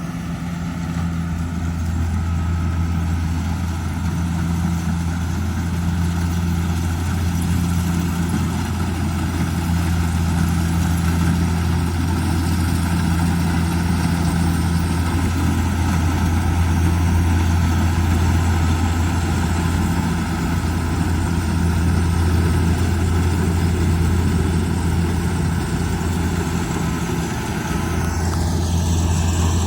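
Kubota DC70G Plus combine harvester's diesel engine running steadily with a deep, even hum.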